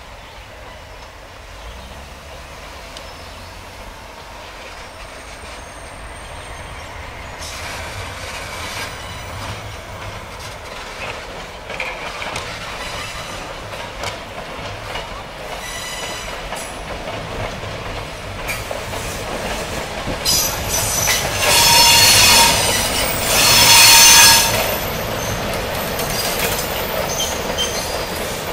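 Passenger train crossing a railroad bridge: wheels squealing and running on the rails, growing louder. Near the end there are two much louder passages, about two seconds and one second long.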